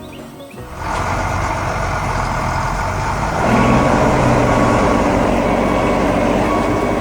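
Heavy construction vehicle's engine running, a sound effect: it starts up under a second in and grows louder about three and a half seconds in, with a steady low hum.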